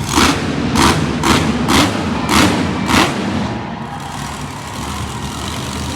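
Monster truck engine rumbling steadily, with six short, loud bursts of noise about half a second apart in the first three seconds.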